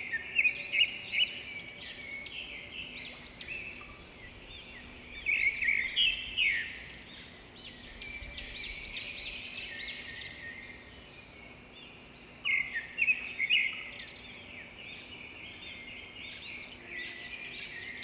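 Small birds chirping and twittering in a continuous chorus of short, quick calls, busiest near the start, around the middle and about two-thirds of the way through.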